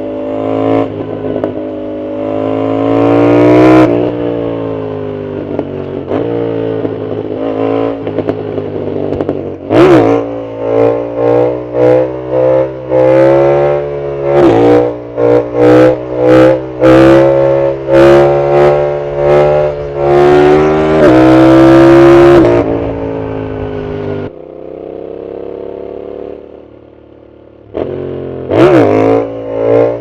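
Yamaha MT-07's CP2 parallel-twin engine through a loud full aftermarket Arrow exhaust, heard from the rider's position. The engine revs up hard, then gives a rapid series of short, sharp throttle pulses. It pulls steadily again, drops to a quieter run for a few seconds, and revs once more near the end.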